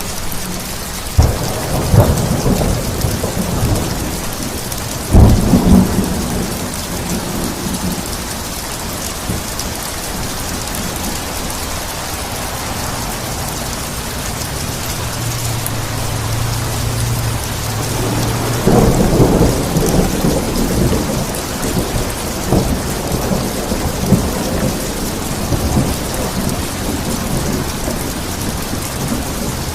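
Steady rain falling during a thunderstorm, with thunder: a sharp crack about a second in, another about five seconds in, and a longer rolling peal a little past the middle.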